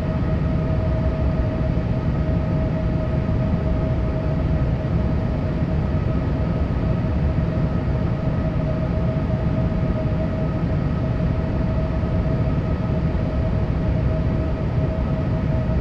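Steady cabin noise aboard a Boeing 787: a constant low rumble with a steady whine above it, unchanging throughout.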